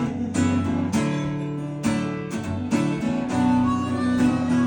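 Acoustic guitar strummed in a steady rhythm, a short instrumental passage between the sung lines of a song.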